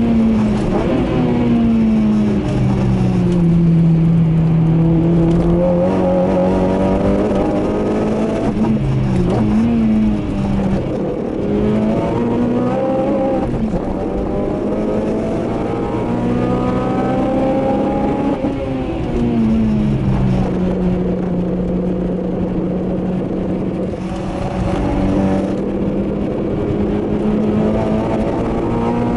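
In-cabin engine and exhaust note of a 2008 Honda Civic Type R's 2.0-litre four-cylinder i-VTEC engine, fitted with a cold-air intake, a Tegiwa exhaust manifold and a 2.5-inch exhaust, being driven hard on track. The revs fall at the start, then climb for several seconds to a high pitch, drop sharply about two-thirds of the way through under braking, and build again near the end.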